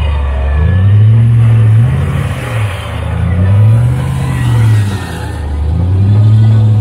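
Jeep Grand Cherokee WJ engine revving up and falling back in repeated surges while the stuck vehicle strains in deep mud on a taut winch line.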